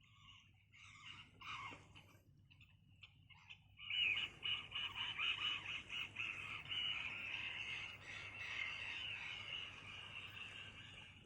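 A night chorus of calling animals: a few scattered pulsed calls at first, then from about four seconds in a dense, continuous chorus of rapid pulsing calls that stops abruptly near the end.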